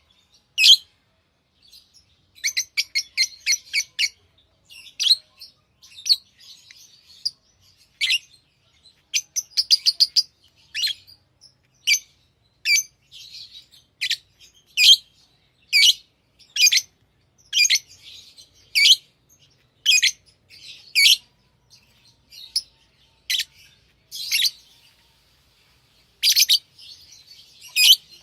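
Pet lovebirds chirping: short, sharp, high-pitched calls about once a second, broken by quick runs of rapid chirps about three seconds in and again around ten seconds.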